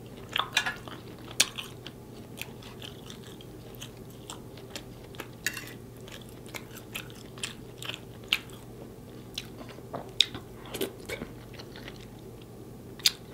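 Close-miked chewing and mouth sounds from eating a sauced grilled pork chop: scattered wet clicks and smacks, thickest in the first second or so, over a faint steady hum.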